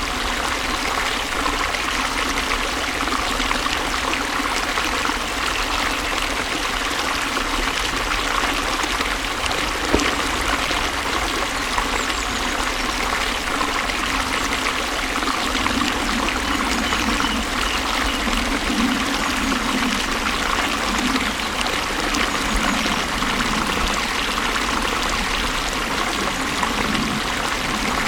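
Water flowing and trickling steadily in a stream, an even rushing sound with small splashes.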